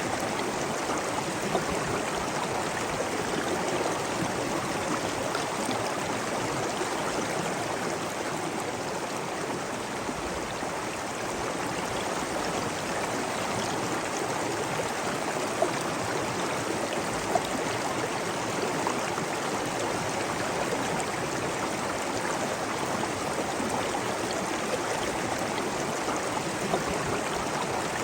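Steady rush of flowing water, like a stream running over stones, with a couple of brief ticks about midway.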